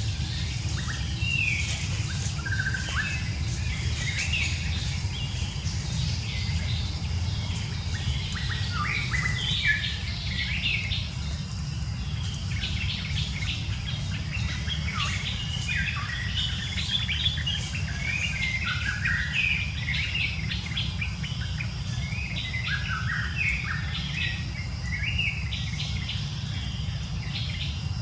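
Small birds chirping busily, many short quick calls overlapping, over a steady low rumble.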